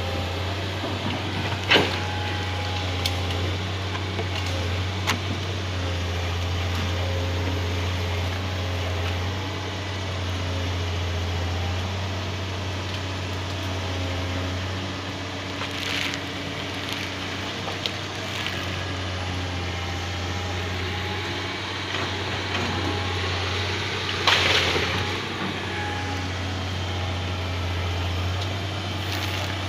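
Excavator engine running steadily, with a few short knocks and cracks from the machine at work, the loudest about 24 seconds in.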